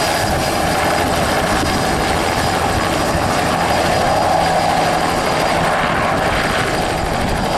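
Agusta Bell 206B helicopter running steadily, its turbine and rotor noise even throughout, with a thin steady high whine above it.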